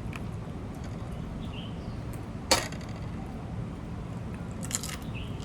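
Hard clicks from handling shellfish and tableware while eating: one sharp crack-like click about halfway through, then a quick cluster of clicks near the end, over a steady low background noise.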